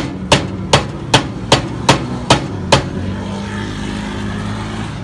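A row of eight sharp, evenly spaced knocks, about two and a half a second, that stops about three seconds in, over the steady drone of an engine running.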